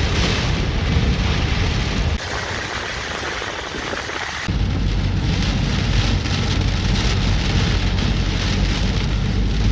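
Hurricane wind and heavy rain, with gusts buffeting the microphone in a deep rumble. The sound changes abruptly about two seconds in to a hissier downpour, then back to heavy wind rumble about four and a half seconds in.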